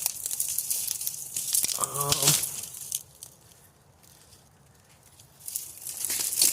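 Footsteps crunching and rustling through dry brush and vegetation, with a brief voice sound about two seconds in. The rustling stops for a couple of seconds in the middle and starts again near the end.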